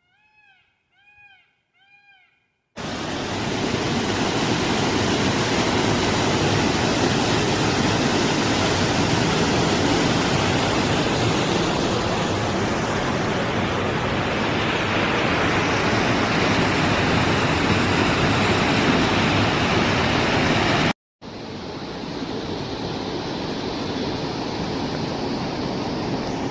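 Waterfall in full flow: a steady, loud rush of falling water. It is preceded by a few faint, quick chirps. The rush cuts out for a moment near the end and resumes a little quieter.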